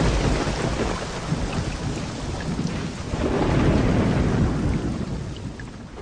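Heavy rain pouring in a thunderstorm, with a low rumble of thunder swelling about three seconds in; the sound fades out near the end.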